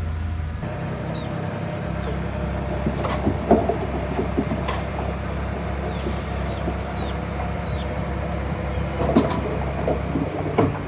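Komatsu D31P bulldozer's diesel engine running steadily under work, with scattered metallic clanks and knocks as it pushes rocks and stone.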